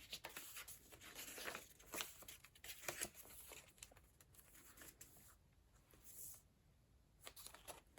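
Faint rustling and light taps of paper as the pages of a handmade junk journal are turned and handled.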